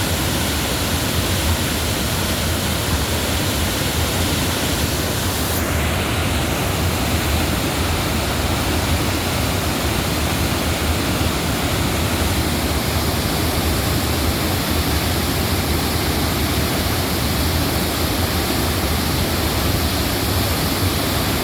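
Crescent Falls waterfall: a loud, steady rush of falling water.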